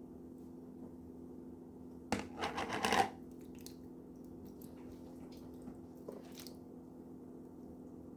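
Leftover vegetable soup being emptied from a bowl into a pan: a wet, scraping burst about two seconds in that lasts about a second, followed by a few smaller knocks, over a steady low hum.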